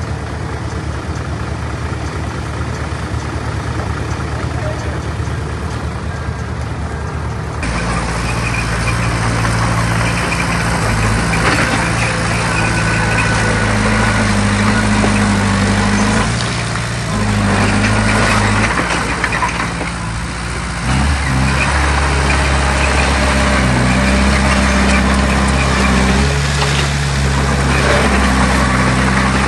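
Heavy diesel earthmoving machinery running. About a quarter of the way in the sound switches abruptly to a louder engine whose pitch steps up and down as it works under changing load.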